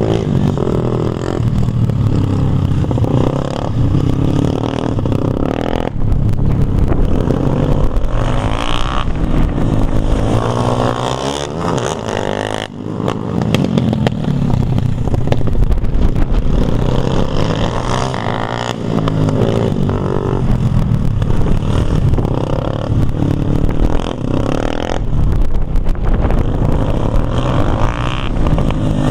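Dirt bike engine revving as it is ridden, its pitch rising and falling with the throttle, with a brief drop in level about halfway through.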